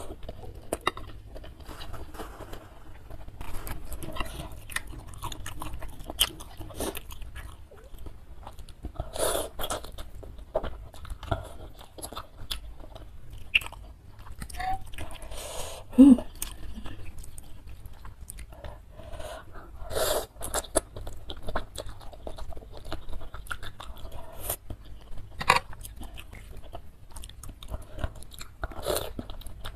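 Close-miked chewing of spicy instant ramen noodles in broth: a steady run of soft, wet mouth sounds and small clicks, with a few louder bites spread through.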